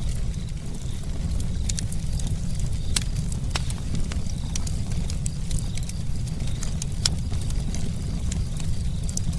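Wood campfire crackling: irregular sharp pops and snaps over a steady low rumble, with a few louder pops about three seconds in and again about seven seconds in.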